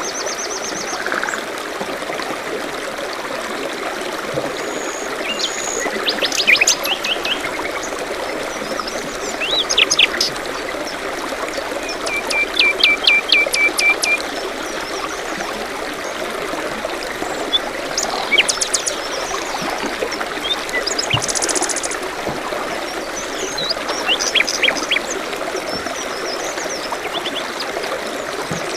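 A small forest stream babbling steadily, with several songbirds chirping and trilling over it. The most prominent call is a quick run of about eight repeated notes near the middle.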